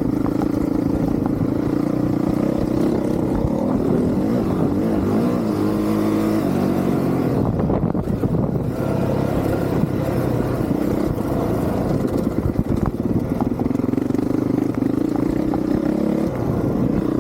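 Honda CRF450R's single-cylinder four-stroke engine revving up and down under throttle as the dirt bike is ridden, with a short drop in revs about eight seconds in.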